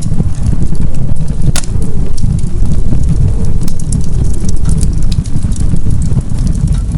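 Wood fire burning in a fireplace, with sharp crackles and pops scattered over a loud, steady low rumble.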